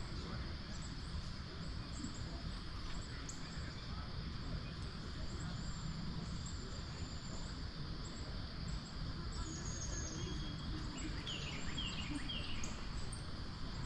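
Steady rush of flowing stream water around a wading angler, with short high bird chirps throughout and a few quick falling bird calls near the end.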